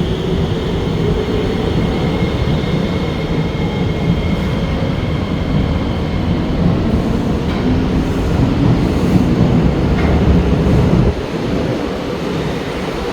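Singapore MRT train running, a heavy low rumble with a faint rising motor whine early on. The rumble drops off sharply about eleven seconds in.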